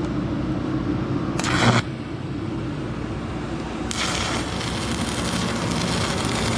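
Stick-welding arc on a 6011 rod: a short loud hiss about a second and a half in, then from about four seconds in a steady crackling hiss as the arc runs, over a steady low hum.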